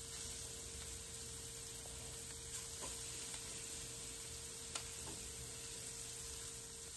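Chicken legs searing in hot oil in a pan, with a steady, faint sizzle. A few faint clicks come as the pieces are laid in and moved with metal tongs.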